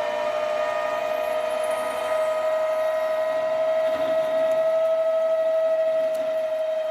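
Stepper-driven metal lathe taking a finishing cut, with a steady high whine and overtones that grow a little louder after about two seconds.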